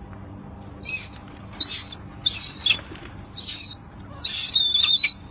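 Birds chirping in about five short high-pitched calls, some with a thin whistled note, the last and longest near the end.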